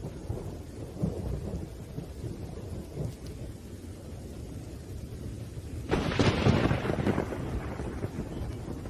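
Thunderstorm: steady rain with low rolling thunder, then a sudden, louder thunderclap about six seconds in that rumbles away over a second or two.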